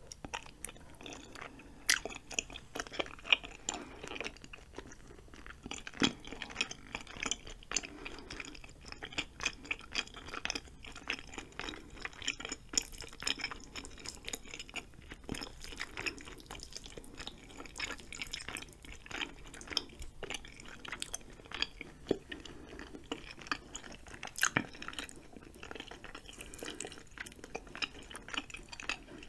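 Close-miked chewing of spicy ramen noodles and chewy rice cakes: a dense, irregular run of wet mouth clicks and smacks.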